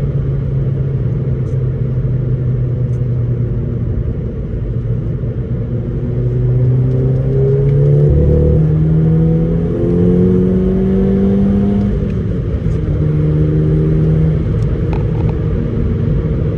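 VW Golf Mk5 GTI's 2.0 TFSI four-cylinder engine running with a cylinder misfire. It idles with a low rumble, is revved up in steps from about six seconds in, then drops back to idle near twelve seconds.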